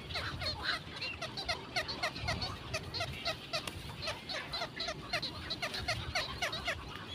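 Birds calling over and over in short, falling notes, several a second.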